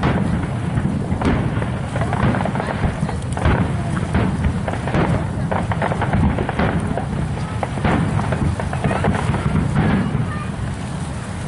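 Fireworks display: a dense run of overlapping booms and crackles over a continuous low rumble.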